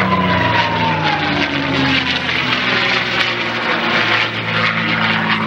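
P-51 Mustang's V-12 piston engine running at speed as the fighter passes, its pitch dropping in the first second or so as it goes by.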